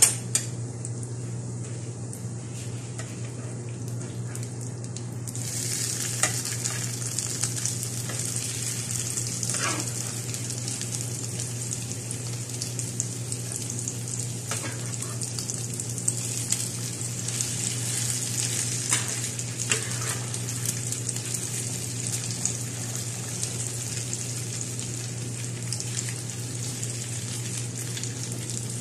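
Cabbage-and-egg fritters frying in oil in a nonstick grill pan, a steady sizzle that grows stronger about five seconds in, with a few short knocks as the fritters are turned. A steady low hum runs underneath.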